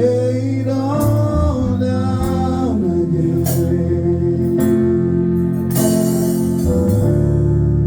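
Gospel hymn sung with instrumental accompaniment in a church worship service, voices holding long notes over a steady backing.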